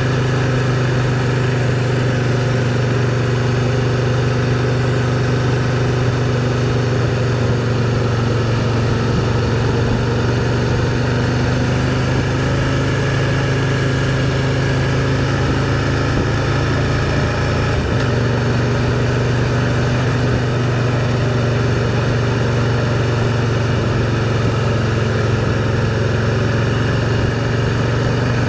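Can-Am Spyder three-wheel motorcycle engine running at a steady road speed: an even, low drone whose pitch drifts only slightly, over a constant rush of road and wind noise.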